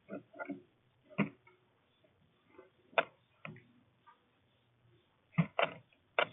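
Small birds at a bird feeder, landing and pecking at seed: irregular sharp taps and knocks, some in quick pairs.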